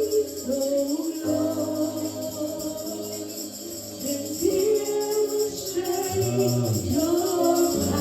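Slow gospel worship music: held keyboard chords over changing bass notes, with a tambourine shaking a steady beat.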